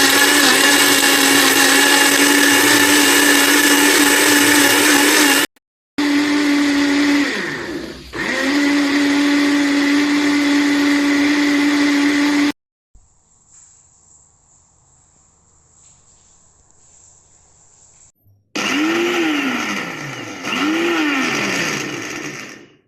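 Philips HR2056 350 W blender motor running at a steady high hum. It stops briefly, slows and picks up again once, and then shuts off for a few seconds. Near the end it runs in two short pulses, each spinning up and winding down in pitch.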